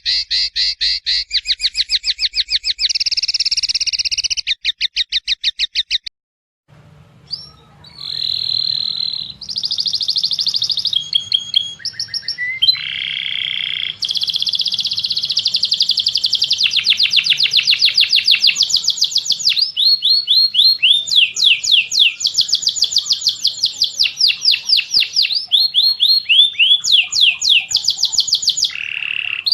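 Caged songbird song: fast trills of high notes repeated in quick, even rows for about six seconds. After a short break a different recording starts over a low hum, with varied phrases, sweeping notes and long rapid trills.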